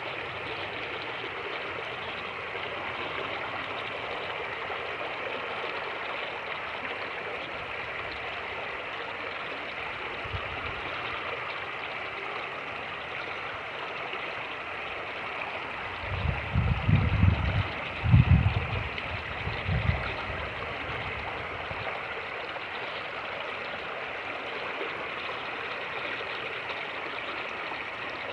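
Fast-moving creek rushing steadily over rapids. Between about 16 and 20 seconds in, several loud low rumbles of wind buffeting the microphone break through a wind cover that is not fully effective.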